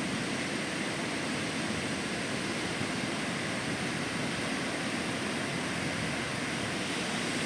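Steady, even rushing noise of ocean surf breaking along the beach.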